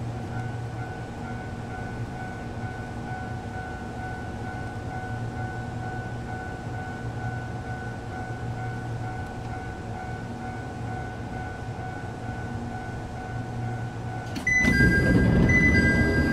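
Inside a stationary Jomo Electric Railway 700 series electric train car: a steady hum of onboard equipment and air conditioning, with faint high whining tones. About fourteen seconds in, it suddenly turns much louder, with a rumble and high steady tones.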